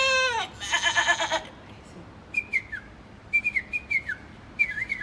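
A man imitating animals with his voice: a wavering, stuttering bleat, then from about two seconds in, short high whistled chirps that slide downward in small groups, like a bird's call.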